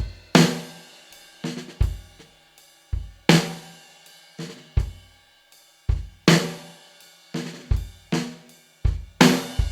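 Background music: a drum kit alone, playing a sparse beat of kick, snare and cymbal hits that repeats about every three seconds.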